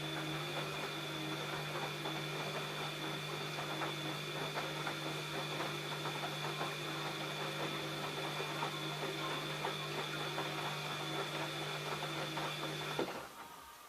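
ELIN A 100 E washing machine running: a steady motor hum with irregular light clicks and rattles, which cuts off abruptly near the end.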